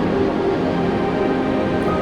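Ambient music of long held notes over a steady rushing noise.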